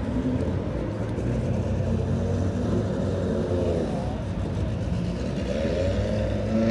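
Several track cars' engines running in a pit lane with a steady low rumble. One engine drops in pitch about halfway through, and near the end an engine revs up with a rising pitch as a car accelerates away.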